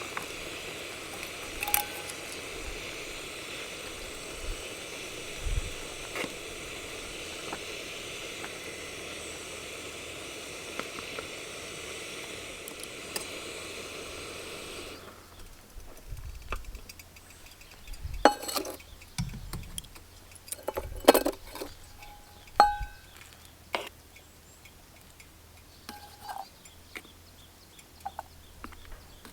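Camp cooking sounds: a steady hiss with a few clicks that stops suddenly about halfway, then scattered clinks and knocks of utensils against cookware and dishes.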